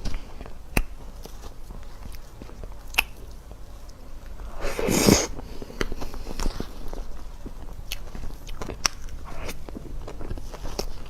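Close-miked eating: chewing with scattered wet mouth clicks, and one louder noisy bite or crunch lasting under a second about five seconds in.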